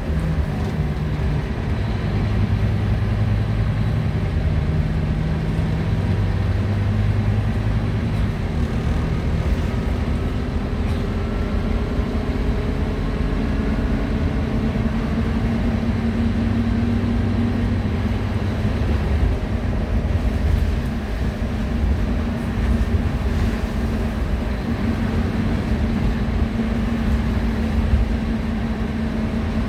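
Scania single-deck bus engine and drivetrain running under way, heard on board over steady road noise. The engine note is low at first and climbs to a higher, held pitch about halfway through as the bus gathers speed.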